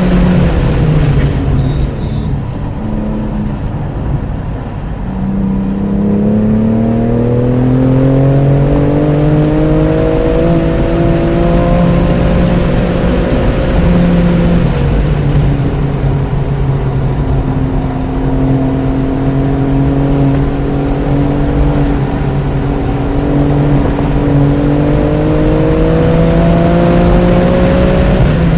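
A 2018 BMW M3 Competition's twin-turbo straight-six under hard track driving. The engine note falls away at the start, then climbs steadily through the revs. About halfway the pitch drops at a gear change, then it climbs again before falling off near the end.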